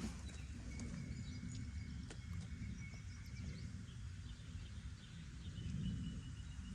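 Faint outdoor background: a steady low rumble with a few faint, thin high chirps and light ticks.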